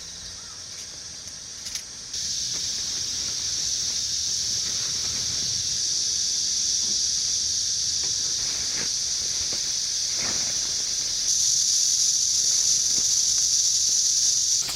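Steady, high-pitched buzzing hiss of a cicada chorus, jumping louder about two seconds in and again near the end, then cutting off abruptly.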